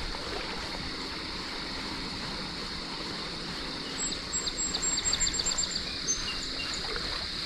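Creek water running steadily over rapids, with a constant high insect drone over it. About four seconds in, a quick series of high ticks or chirps lasts roughly two seconds.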